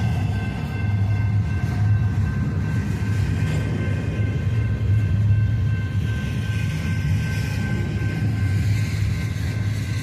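Cars of a Union Pacific intermodal freight train rolling past: a steady rumble of wheels on rail, with a few faint steady tones above it.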